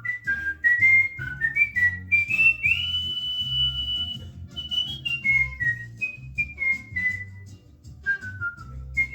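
Cockatiel whistling a tune: a run of short, clear notes stepping up and down, with one long high note held for about a second and a half near the middle. A low rhythmic background sound runs underneath.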